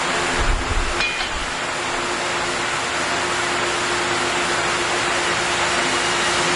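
Machinery running with a steady, even noise and a constant hum, with a low bump and a single click about a second in.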